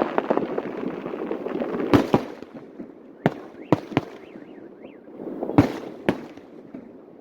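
Fireworks display: a dense crackle of bursting shells at first, then separate sharp bangs spaced out through the rest, about seven in all.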